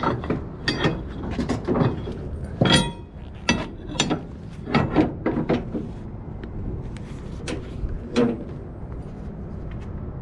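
Flatbed strap winches being tightened with a steel winch bar: irregular sharp metallic clanks and knocks, about a dozen, one ringing out about three seconds in.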